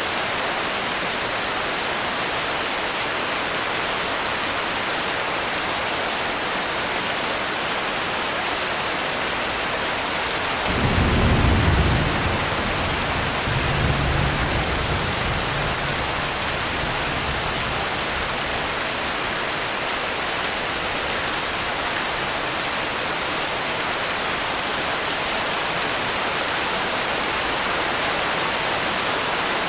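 Steady, even rainfall hiss, with a low roll of thunder that breaks in suddenly about eleven seconds in, swells a second time a few seconds later and fades away.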